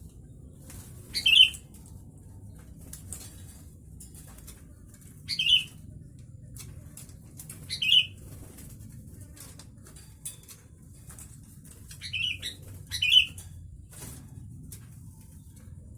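Sooty-headed bulbul calling: five short, loud calls spaced a few seconds apart, each one dropping in pitch. Faint scattered clicks and rustling come in between.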